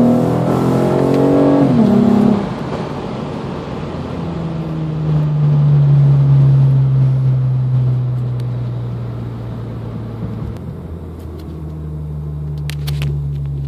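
Honda J35Z2 V6 heard from inside the cabin at the top of a wide-open-throttle pull, revving high, then the paddle-shift automatic goes up to third and the revs and engine sound drop sharply about two seconds in. After that the engine settles into a steady low drone that sags slowly as the car rolls on, and a few sharp clicks come near the end.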